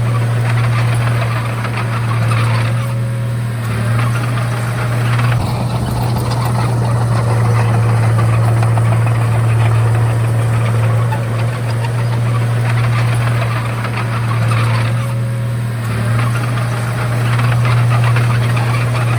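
Komatsu D31A bulldozer's diesel engine running steadily with a constant low hum, with harsher machine noise swelling and easing every few seconds.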